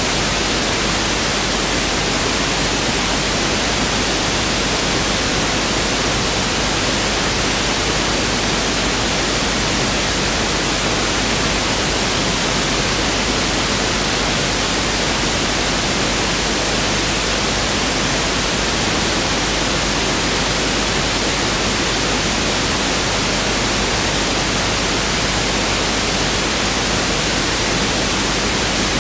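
Pink noise test signal (1/f noise): a steady, even hiss with equal energy per octave.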